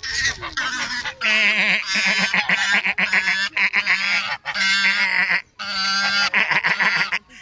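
Waterbirds calling loudly over and over: a string of harsh, wavering calls broken by a few short pauses.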